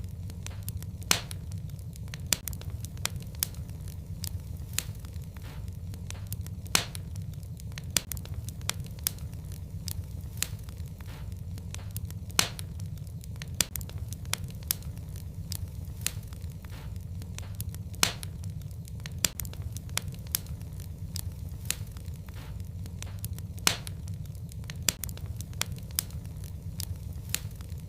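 Fire burning in a fireplace: a steady low rumble of flame under dense, irregular crackles and pops, with a louder sharp pop every few seconds.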